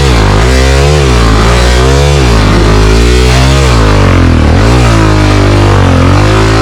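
Single-cylinder four-stroke dirt bike engine revved up and down over and over, about once a second, with a steady low engine note underneath. It is the sound of the rider working the throttle to get the bike out of deep mud.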